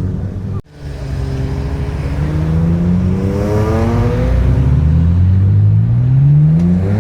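A car engine revving up, its pitch climbing steadily over several seconds. The sound cuts out briefly just over half a second in.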